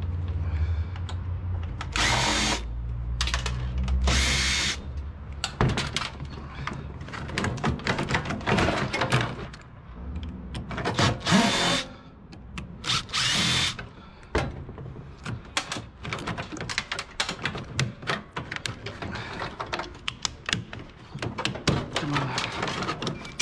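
Power drill whirring in short bursts, about a second each, as a scrapped microwave is taken apart for parts. Between the bursts come many short knocks and clanks of metal.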